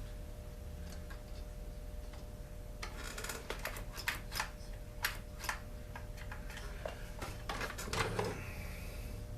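Scattered light clicks and taps of hand tools and small metal parts being handled as a chainsaw is taken apart, over a faint steady hum.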